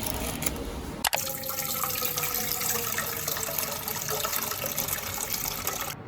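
Water running from a kitchen tap into a sink or vessel, as a steady rush with a sharp click about a second in.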